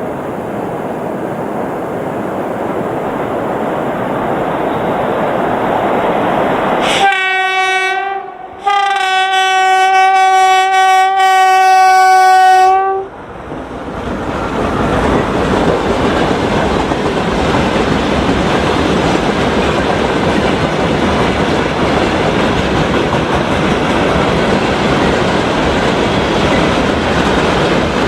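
2ES10 'Granit' electric freight locomotive approaching and sounding its horn: a short blast, then a longer one of about four seconds, described as beautifully sounding. Then the freight train rolls past with a steady rumble and wheel clatter.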